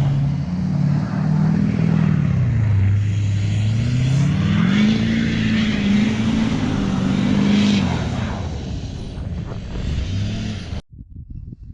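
LBZ Duramax 6.6-litre turbodiesel V8 pickup engine running loud, its pitch dropping then climbing again as the engine speed changes. The sound cuts off abruptly near the end.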